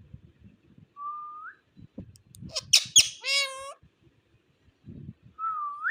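Indian ringneck parakeet calling: a short rising whistle, then a burst of loud, harsh squawks about two and a half seconds in, and another rising whistle near the end.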